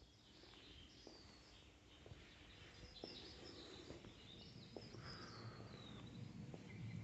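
Faint birdsong: short chirps and twittering phrases, with a few soft knocks spaced about a second apart.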